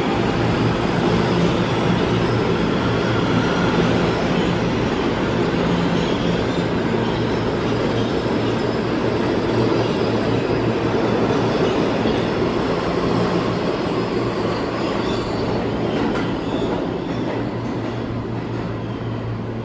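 New York City subway train moving along the platform: a steady rumble of steel wheels on rail with thin high squealing tones, easing off over the last few seconds.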